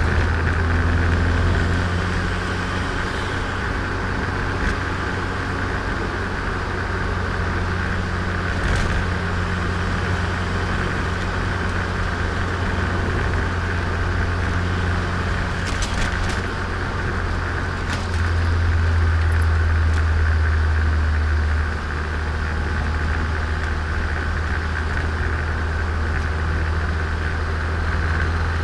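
Turbocharged Nissan Micra driving, heard onboard: a steady low engine drone over road noise. It gets louder from about two-thirds of the way through for some four seconds, then drops off suddenly, and there are a few brief clicks.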